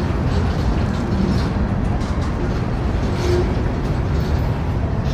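A train running by with a loud, steady low rumble.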